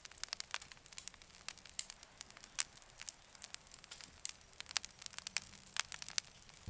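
Campfire crackling: irregular sharp pops and snaps over a faint hiss.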